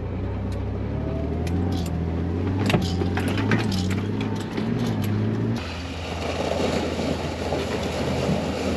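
Off-road vehicle's engine droning steadily while it drives a rough trail, with scattered knocks and rattles from the body and suspension. About two thirds of the way in, the engine note gives way abruptly to a rougher, noisier rush.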